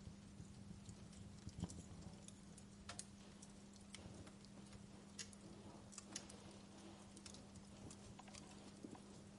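Wood fire crackling quietly: irregular sharp snaps and pops from burning logs, a few louder ones scattered through, over a faint steady low hum.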